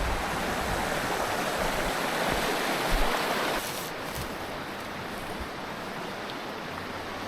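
Stream water rushing steadily over rocks, louder for the first half and then quieter a little after halfway.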